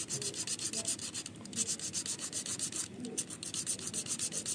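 Emery paper rubbed over the rusted metal parts of an MU-1 three-phase starter's contactor in quick, even back-and-forth strokes. It is scouring off the rust that makes the contactor vibrate and buzz when the starter is switched on.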